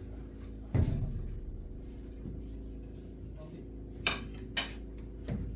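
A heavy thump, then two sharp clacks about half a second apart and a softer knock, over a steady low hum.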